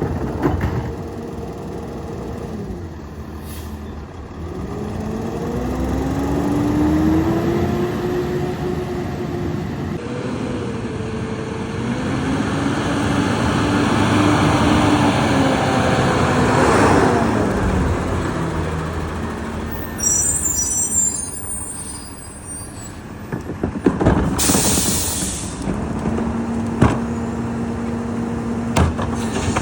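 Diesel engine of a Peterbilt 348 rear-loader garbage truck revving up and down twice as it drives the packer hydraulics compacting a load. About 24 s in a sharp hiss of air is let off, followed by a few knocks, and the engine settles into a steady idle near the end.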